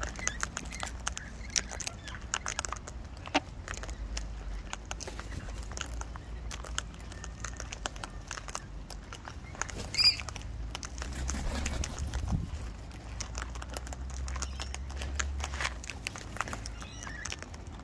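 Wild white cockatoos eating seed: many small clicks and cracks of beaks working the seed, with one short high call about ten seconds in.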